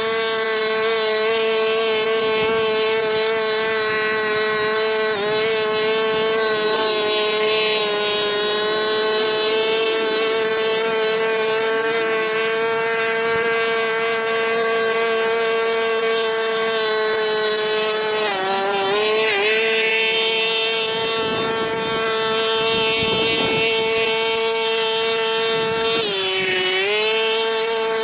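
A power tool's motor runs at a steady high whine. Its pitch sags and recovers twice, about two-thirds of the way in and again near the end, as the tool is bogged down by pressing it into the work.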